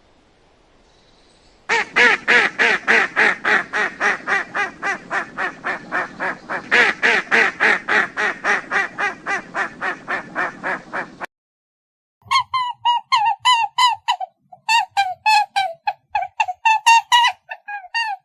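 Birds calling in a fast, even series of calls, about four a second, that cuts off suddenly about eleven seconds in. After a brief silence a second, higher-pitched run of quick calls follows.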